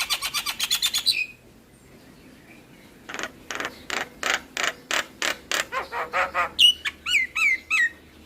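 Javan myna singing: a fast run of short notes that stops about a second in, then after a pause a series of short scratchy notes at about four or five a second, closing with several downward-slurred whistles.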